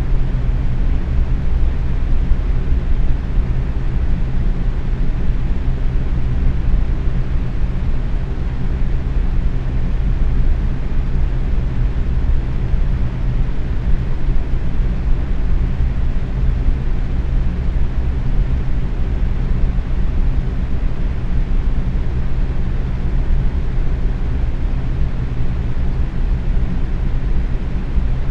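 Box fan running steadily at medium speed: a constant low whooshing hum of air, with most of its weight in the low end and a few faint steady tones from the motor and blades.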